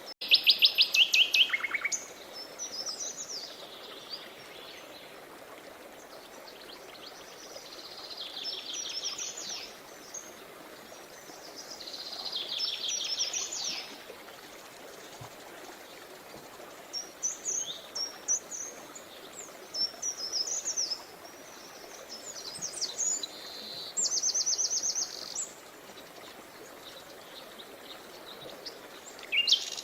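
Songbirds singing in separate phrases over the steady rush of a river. A fast run of chirps opens, trilled phrases follow, and a rapid trill comes near the end.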